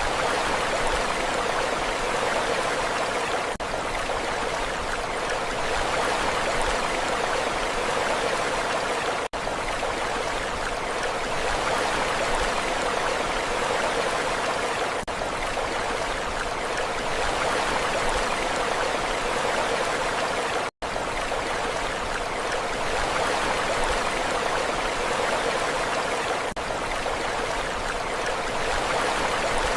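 Steady rushing water, an even hiss with no rise and fall of waves. Brief dips come about every six seconds, and one short near-total dropout comes about 21 seconds in, like the seams of a looped recording.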